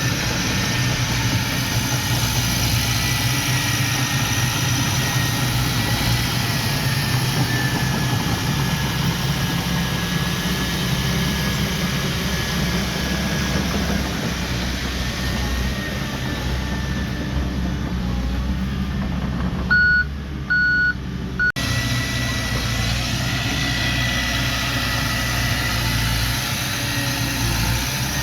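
Diesel engine of heavy earthmoving machinery, a mini bulldozer or dump truck, running steadily. About twenty seconds in, three short electronic reversing beeps sound. A moment later the engine sound changes abruptly.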